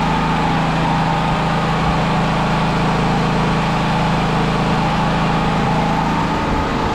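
Firman T07573 tri-fuel generator's engine running steadily at one constant speed, its idle freshly adjusted down because it seemed to be running at too high an RPM.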